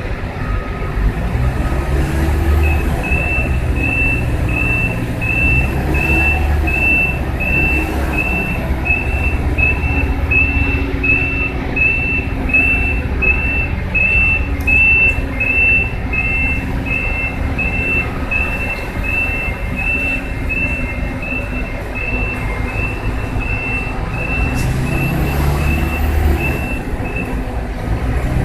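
Warning beeper on heavy lifting or port machinery, sounding a steady high beep about once a second, over a diesel engine running. The beeping starts a few seconds in and stops near the end.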